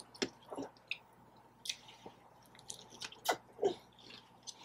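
Close-miked chewing and biting of food: irregular wet mouth smacks and short crisp clicks several times a second.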